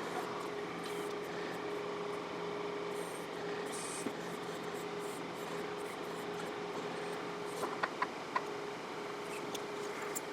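John Deere 4052R compact tractor's diesel engine running steadily, with a faint steady hum, while the 485A backhoe digs around a stump. There are a few small clicks about eight seconds in.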